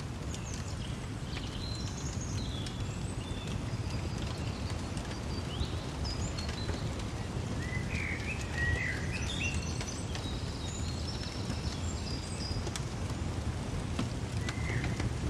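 Songbirds chirping and calling in short scattered phrases, the loudest a little past the middle, over a steady low rumble, with a few sharp crackles from a wood fire.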